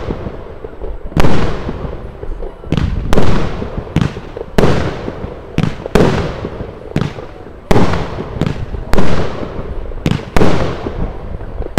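Kiss by Fire consumer fireworks battery (cake) firing shot after shot: sharp bangs, irregularly spaced at one or two a second, each trailing off in a fading hiss.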